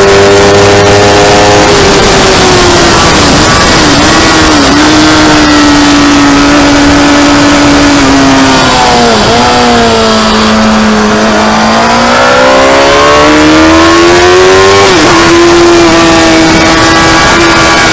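Motorcycle engine running hard on a race track. Its pitch holds high with a few quick dips, falls to its lowest about halfway through, climbs again, and dips sharply at a gear change before it levels off.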